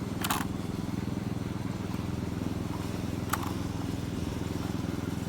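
Small engine of a Scamp-type miniature railway locomotive running steadily under way, with two short sharp clicks about three seconds apart.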